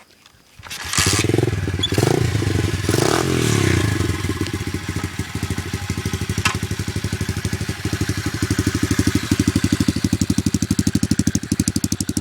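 Gio 125cc single-cylinder dirt bike engine starting about a second in, revved briefly a few times, then settling into a steady idle with an even pulsing beat.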